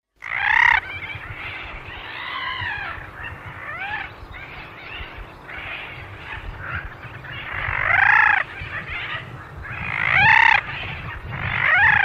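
Birds calling: a series of loud arching squawks, the loudest about half a second in, at about eight seconds and at about ten and a half seconds, with quieter calls between them.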